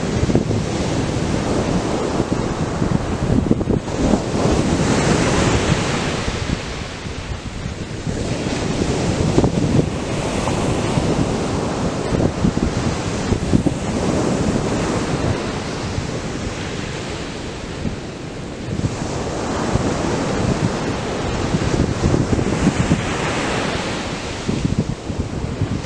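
Atlantic surf breaking and washing on a sandy beach, a continuous wash that swells with each breaking wave every few seconds, with wind buffeting the microphone.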